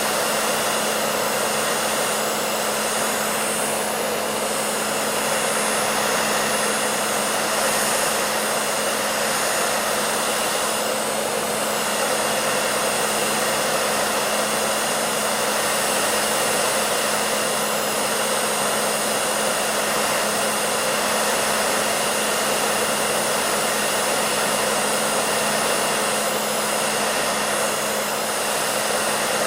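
Hair dryer running steadily: an even rushing blow of air over a constant low motor hum, without change.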